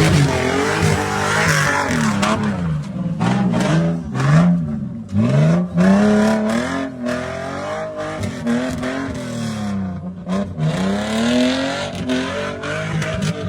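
Off-road vehicle engine revving hard over and over, its pitch climbing and dropping every second or two, with short knocks and bangs scattered through it.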